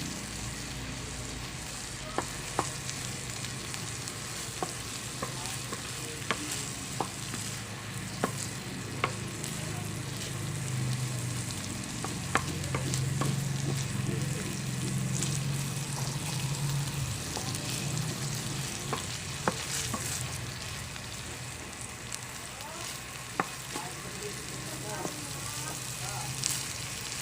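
Onions sautéing in a pan, a steady sizzle, with occasional sharp clicks of stirring against the pan. The sizzle swells a little midway.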